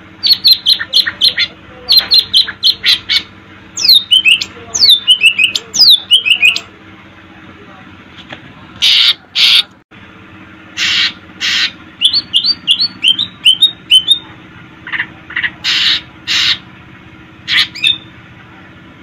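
Cucak ijo (green leafbird) singing: runs of short, harsh, sharp notes alternating with series of quick down-slurred whistles, in bursts broken by brief pauses.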